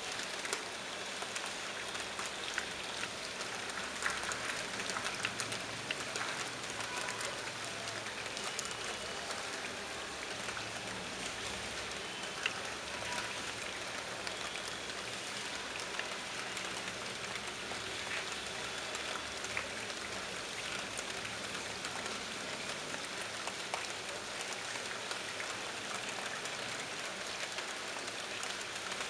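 Monsoon rain falling steadily onto a wet terrace floor, drops splashing into standing water. Many separate drop hits stand out against an even hiss.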